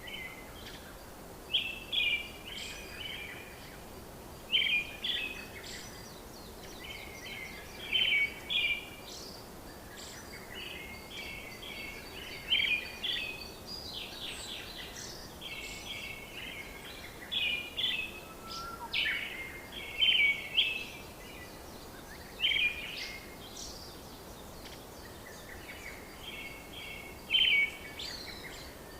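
Birds singing: short bursts of quick chirping notes recur every second or two over a steady background hiss.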